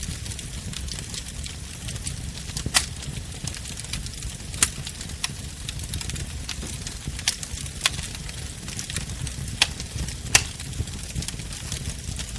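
Bonfire burning, a steady low rumble of flame under constant fine crackling, with about six sharp pops of burning wood, the loudest near 3, 4.5 and 10 seconds in.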